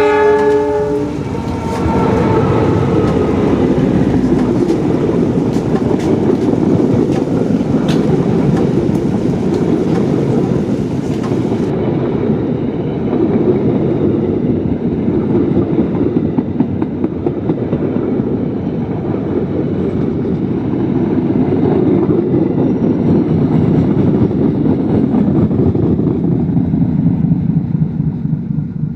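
The KAI Argo Semeru passenger train's diesel locomotive sounds its horn briefly at the start. The train then passes at speed, a loud, steady rumble with the wheels clicking over the rail joints, fading near the end.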